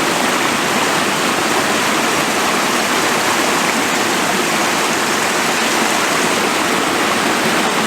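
Stream running: a steady, even rush of water.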